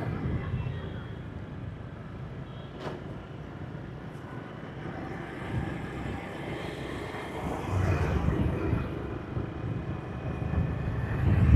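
Motorbike on the road at night: its engine running steadily with tyre and wind noise, louder swells about eight seconds in and again near the end, and one short click about three seconds in.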